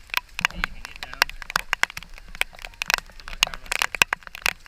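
Rapid, irregular crackling clicks, many sharp ticks a second with no steady rhythm.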